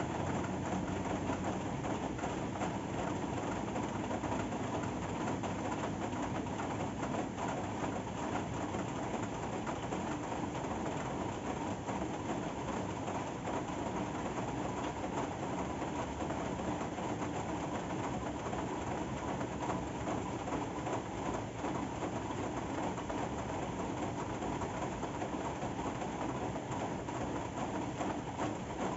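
Steady rain falling, an even unbroken hiss with most of its weight low, and a faint steady hum beneath it.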